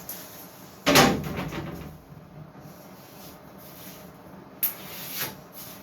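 A hard knock about a second in that rings out briefly, then two lighter clicks near the end: handling noise on the wooden cabinet being measured.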